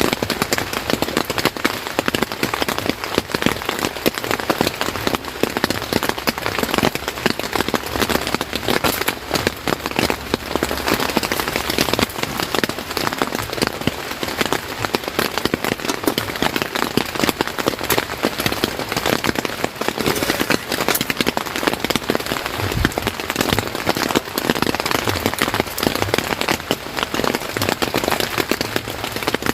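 Steady rain falling on a surface, a dense even patter of many fine drops.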